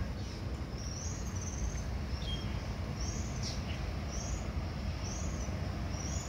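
A bird repeating a short, high, arched call about once a second, over a steady low outdoor rumble.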